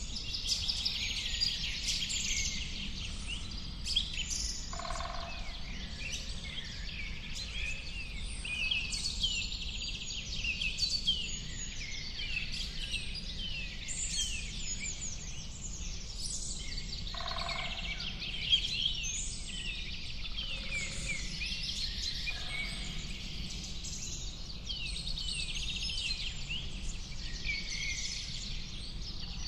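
Many songbirds chirping and trilling at once in a continuous, overlapping chorus of short high calls, with a few lower calls now and then over a steady low rumble.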